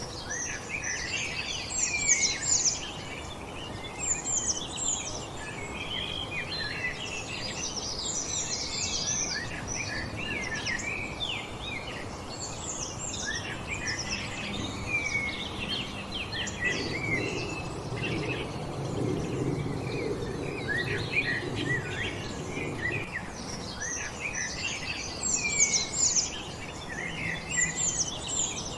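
Several wild songbirds singing and chirping at once, a dense chorus of quick calls and trills. A low rumble sits under it through the middle stretch.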